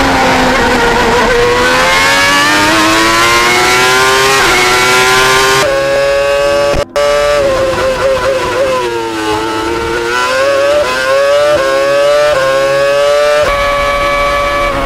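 Formula 1 car engines running at high revs, heard in several clips cut one after another: the high-pitched engine note falls and climbs repeatedly, stepping as the gears change, with a brief dropout about seven seconds in.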